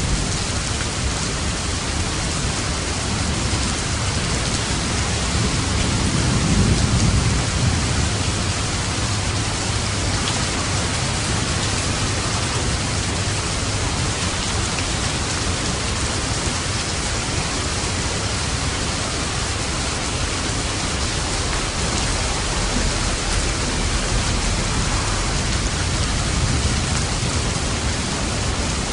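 Steady heavy rain from a thunderstorm, with a low roll of thunder swelling up about six seconds in and fainter rumbles later.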